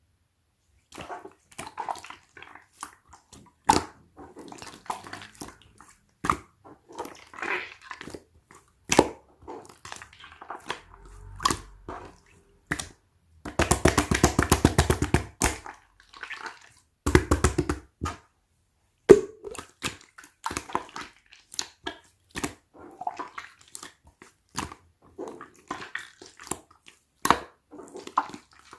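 Slime being squished and poked by hand, making wet clicks and small air-bubble pops. About halfway through come two bursts of rapid crackling pops.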